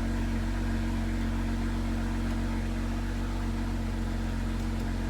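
BMW X5's N55 turbocharged inline-six, running with a downpipe and stage 1 tune and its exhaust valves open, idling steadily with an even low hum.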